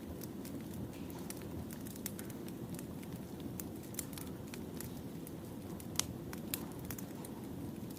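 Wood fire crackling: a steady low rush of burning logs with frequent sharp pops, one louder pop about six seconds in.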